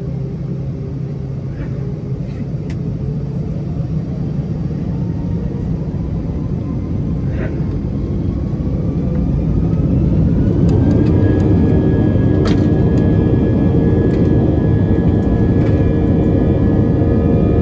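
Airbus A320's IAE V2500 jet engines heard from inside the cabin, spooling up to takeoff thrust: over the steady cabin rumble, a whine rises in pitch and the noise grows louder, then holds at full power about two-thirds of the way in. Light clicks and rattles follow.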